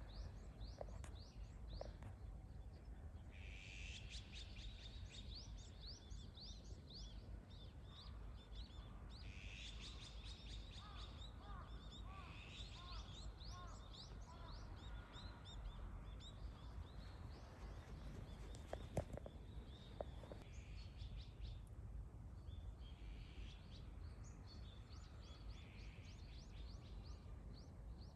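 Small birds chirping and twittering in repeated bouts of quick, high, sliding notes, with a few lower calls in between, over a steady low background rumble. Two sharp clicks come about two-thirds of the way through, the first the loudest thing heard.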